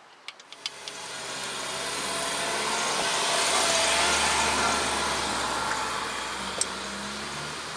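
A passing road vehicle whose engine and tyre noise swells over a few seconds and then slowly fades. A few light clicks sound near the start.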